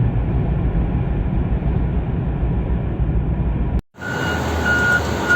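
A steady, low rumbling vehicle noise stops abruptly nearly four seconds in. A vehicle's reversing beeper then starts, a repeating high beep over a steady engine rumble.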